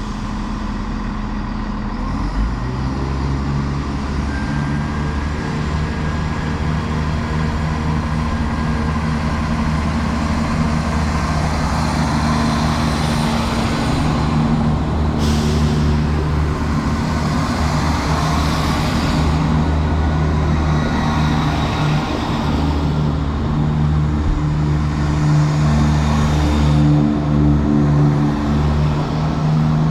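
Diesel train engine running steadily, a low drone that comes in about two seconds in and holds, with a hiss higher up partway through.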